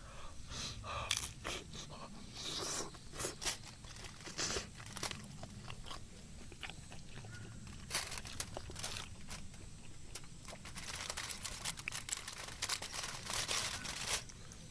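A run of short, crisp crunches in irregular clusters, with quieter gaps between them.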